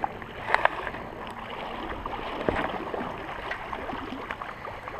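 Shallow stream water running, with a few sharp splashes: the strongest about half a second in and another about two and a half seconds in.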